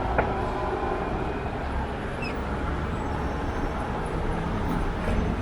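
Wind rushing over the microphone with road and traffic noise while riding an electric scooter, with one short click about a quarter second in.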